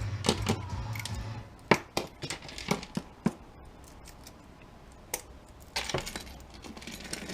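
Small pieces of scrap metal clinking and clattering as they are handled and sorted by hand, in a string of separate sharp clinks, the loudest about a second and a half in.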